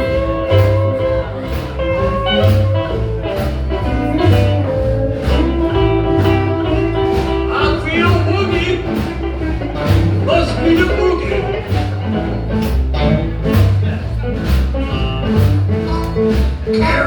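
Live blues band playing an instrumental stretch: a guitar lead with held and sliding notes over bass and a steady drum beat.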